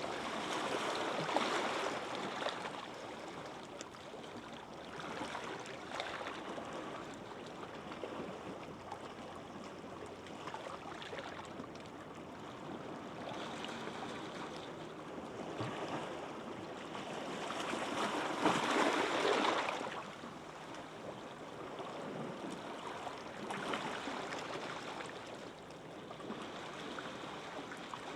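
Gentle waves washing in on a beach, the surf swelling and falling away every few seconds, with the loudest wave about two-thirds of the way through.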